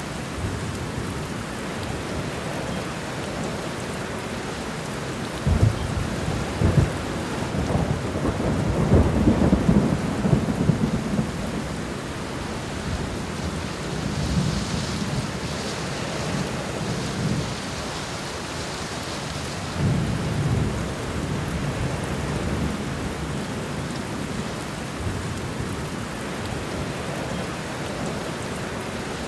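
Steady rain falling through a thunderstorm, with thunder rumbling several times; the longest and loudest rolling peal comes about six to eleven seconds in, and softer rumbles follow later.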